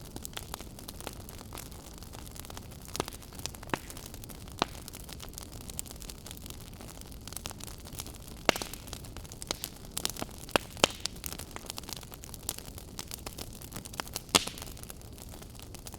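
Logs burning in a fireplace: a steady low hiss of the fire with irregular crackles and sharp pops of the burning wood, a cluster of louder pops about halfway through and another near the end.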